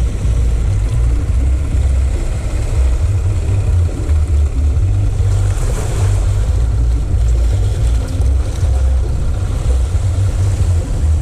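Wind buffeting the microphone in uneven gusts, with the wash of sea waves underneath.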